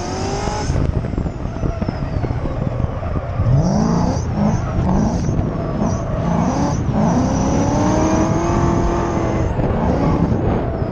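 Supercharged LS V8 in a Nissan S13 Silvia, heard from on board, revving hard up and down while drifting. There are several quick rev rises, then a longer climb past the middle, with tyres squealing.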